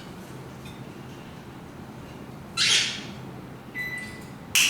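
Senegal parrots calling: a short, harsh squawk about halfway through, a faint thin whistle about a second later, and another sharp, loud call at the very end.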